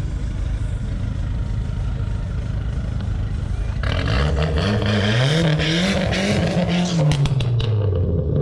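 Car engine idling with a low rumble, then about four seconds in it goes to full throttle as the car launches down a drag strip. Its pitch climbs and dips in steps as it revs through the gears, then falls away as the car pulls off into the distance.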